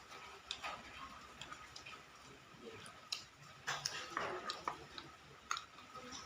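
Someone eating: quiet chewing and mouth clicks, with scattered light ticks and taps.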